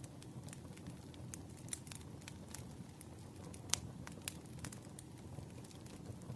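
Wood fire burning: a steady low rumble of flames with scattered sharp crackles and pops of burning logs, the loudest pop about three and a half seconds in.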